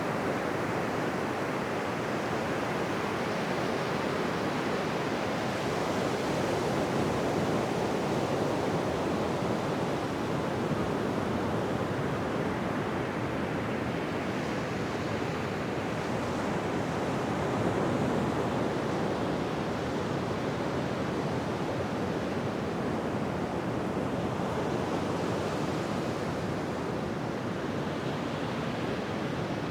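Ocean surf washing onto a beach: a steady rush of waves with gentle swells in loudness now and then.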